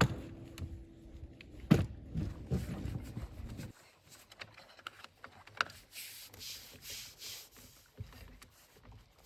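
Scattered knocks and clacks of objects being handled, the loudest about two seconds in, with a few softer thuds after it and a single click later.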